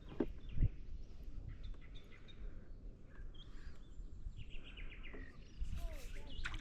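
Faint songbird chirps and calls over steady outdoor background noise, with a short, rapid run of repeated chirps about five seconds in.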